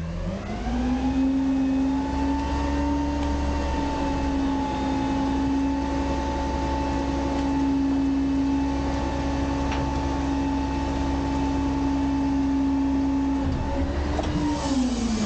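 Garbage truck engine speeding up as the packer engages. It holds a steady raised speed while the hydraulics drive the packer blade through its cycle, then dips and climbs again near the end.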